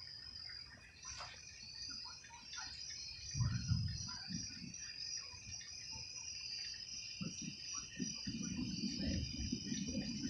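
Night chorus of crickets and other insects, a steady high trilling with many short chirps over it. A low rumble rises about three seconds in, and again from about eight seconds on.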